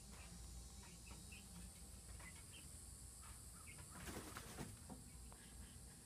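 Faint, scattered chirps of birds, with a brief flutter of wings about four seconds in.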